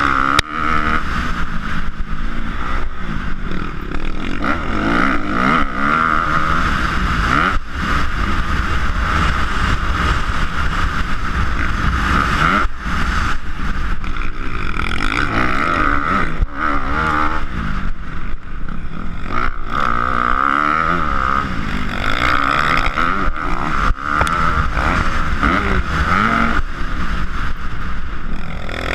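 Motocross dirt bike engines revving up and down continuously, the engine pitch rising and falling again and again as the bikes work around the track.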